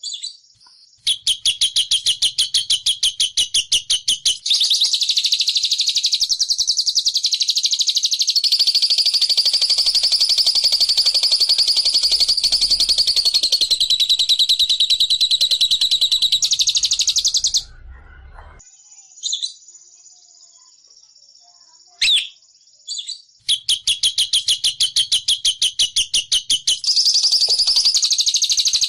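A songbird's rapid chattering trill: long runs of fast, evenly repeated high notes lasting several seconds each, broken by a pause of a few seconds past the middle before the chatter starts again. This is the fast 'ngekek' chatter used as a lure call.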